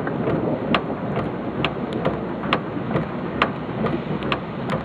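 Steady heavy rain noise during a thunderstorm, with a sharp tick repeating evenly a little faster than once a second.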